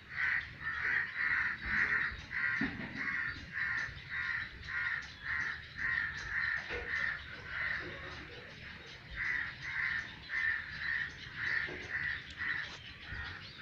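A hungry bird calling over and over in short, even calls about twice a second. The calls pause for a couple of seconds midway, resume, and stop shortly before the end.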